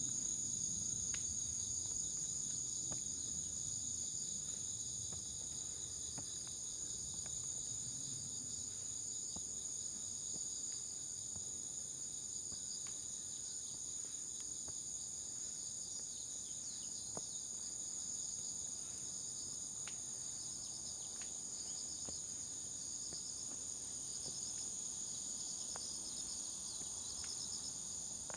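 A steady, high-pitched chorus of insects singing at several pitches at once, with faint scattered footstep ticks from walking on a forest trail.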